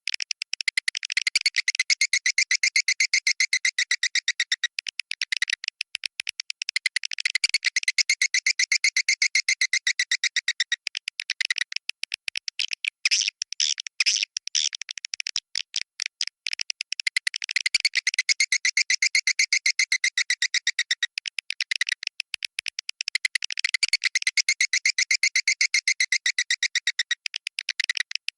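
Swiftlet call recording of the 'Goa China' type: fast, even chirping and twittering repeated without a break. Fuller phrases of about three to four seconds alternate with thinner stretches.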